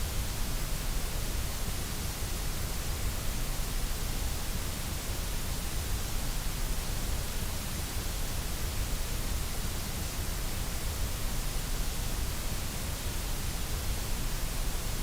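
Steady generated white noise for sleep and relaxation: an even, unchanging hiss spread across all pitches.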